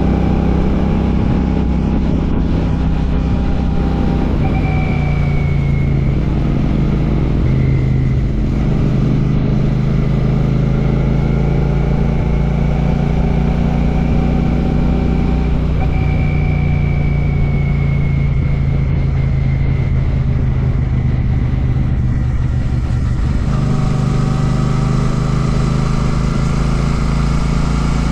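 Royal Enfield Classic 650's parallel-twin engine running through an aftermarket Ngage exhaust while riding. The note is steady, with its pitch shifting a few times as the revs change.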